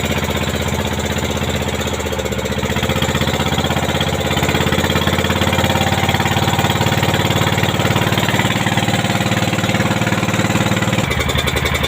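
A pompong boat's inboard engine running steadily with an even, rapid chugging pulse.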